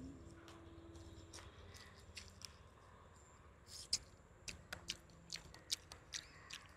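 Faint, irregular sharp clicks and crunches of someone chewing crisp fried fish, close to the microphone, growing more frequent in the second half.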